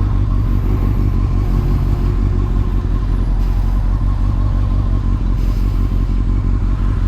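Honda CBR600F4i's inline-four engine running steadily, a loud, even low rumble.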